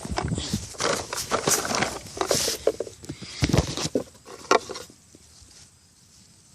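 Close rustling, scraping and tapping, busy for about five seconds and then dying down to faint background.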